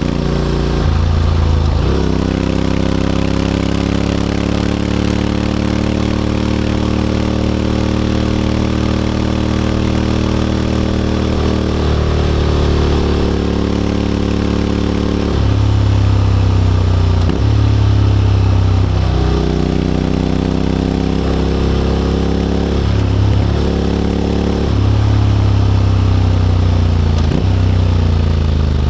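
A 2022 Honda X-ADV 750's parallel-twin engine running through an SC-Project titanium slip-on exhaust. The engine note holds or glides in pitch, then steps suddenly several times as the dual-clutch transmission changes gear.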